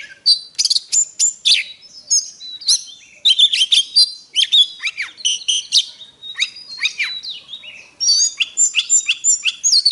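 Oriental magpie-robin singing a fast, varied song of high whistled and chattering notes, many sliding quickly down in pitch, with brief pauses.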